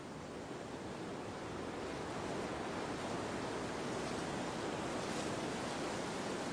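Steady wind noise, rising in level over the first couple of seconds and then holding even.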